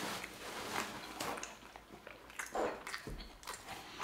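Close-miked chewing of a juicy double cheeseburger: soft, wet mouth sounds and small smacks, with no talking.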